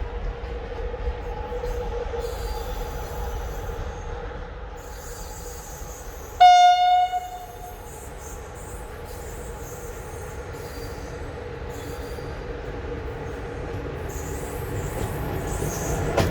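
Train horn sounding one short blast of about a second on a single pitch, over the steady rumble of an arriving train. The train's rumble and wheel noise grow louder near the end as it comes closer.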